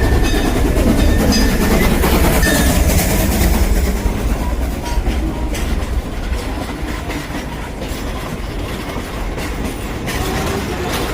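Steam excursion train rolling along, heard from aboard: a steady low rumble from the running gear with wheels clicking over rail joints, the clicks most distinct in the second half.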